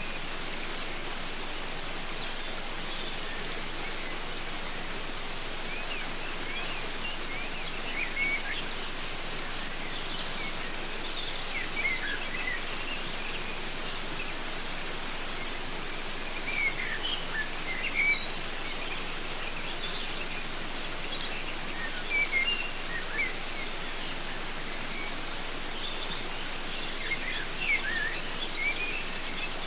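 Waterfall rushing steadily, with birds calling over it: clusters of short, quick chirps every few seconds.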